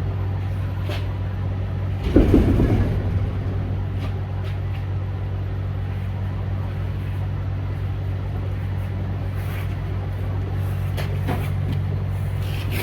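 Steady low engine drone of a Peterbilt semi truck heard from inside the cab. About two seconds in, a loud low rumble lasts about a second, with a few faint clicks near the end.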